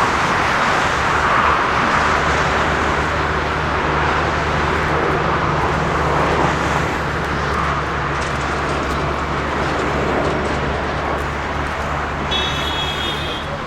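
Steady loud engine and traffic noise, with a low steady hum that joins about two seconds in and a brief high-pitched tone near the end.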